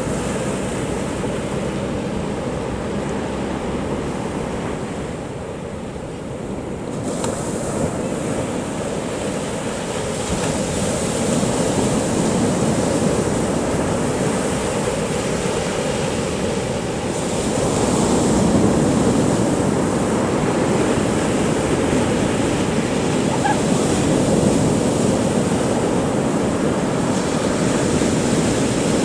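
Big sea waves breaking and washing up on a beach, a continuous surf that swells and eases over several seconds at a time.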